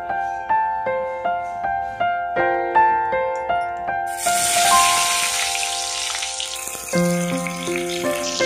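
Whole pointed gourds sizzling as they are dropped into hot oil in an iron wok, the sizzle starting about four seconds in and easing off a few seconds later. Background keyboard music plays throughout.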